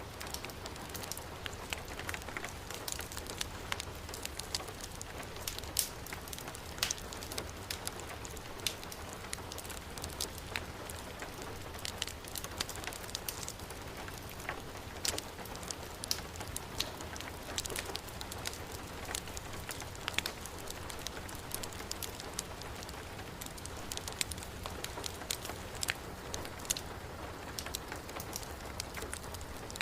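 Heavy rain falling in a steady hiss, mixed with a crackling wood fire that gives scattered sharp pops and clicks.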